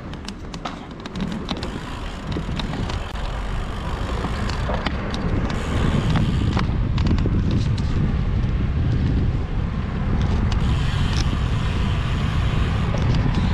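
Low rumble of wind and road noise on the microphone while riding a bicycle, growing louder over the first six seconds and then holding steady, with scattered small clicks.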